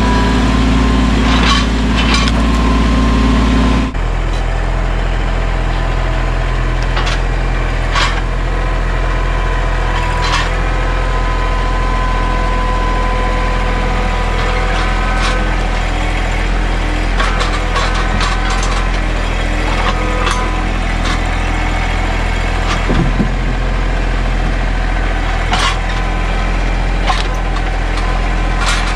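Mahindra 1626 sub-compact tractor's diesel engine running steadily under work, with scattered sharp cracks and snaps of wood and brush breaking. The engine note drops abruptly about four seconds in.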